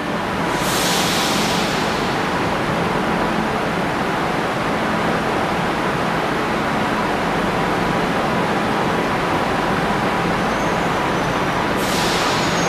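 Renfe Class 120 Alvia train creeping into a station platform, a steady rumble and whir of its equipment. Two short hisses of air come about a second in and again near the end.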